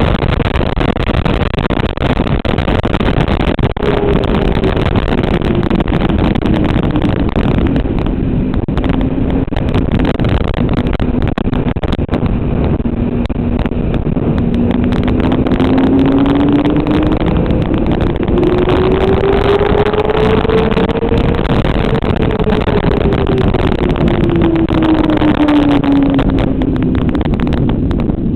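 Motorcycle engine running on a race track under heavy wind rush. Its pitch falls slowly for several seconds, holds low, climbs steadily for about eight seconds, then drops away again near the end.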